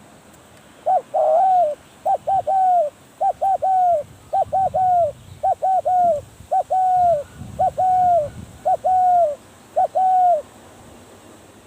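Spotted dove cooing, about ten repeated phrases of a couple of short notes and a longer drawn note, from about a second in until shortly before the end.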